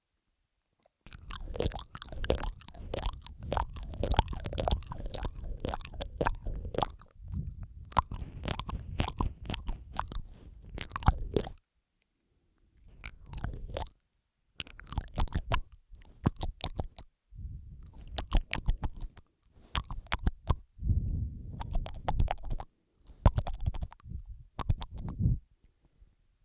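ASMR mouth sounds: wet clicks and smacks of the lips and tongue, in dense runs with brief silent gaps between clusters in the second half.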